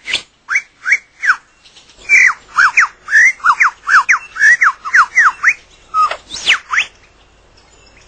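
Superb lyrebird singing: a rapid run of loud, whistled notes, most sweeping down in pitch. There is a short pause about a second and a half in, and the song stops about seven seconds in.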